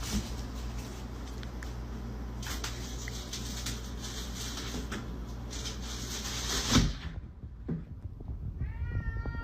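Steady background noise with a few knocks and a thump about seven seconds in, then a cat starts meowing near the end.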